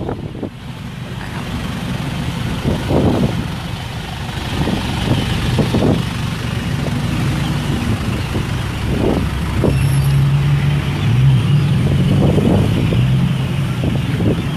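Car and pickup engines running nearby, with a low steady engine hum that grows louder, strongest from about ten seconds in as one vehicle runs close.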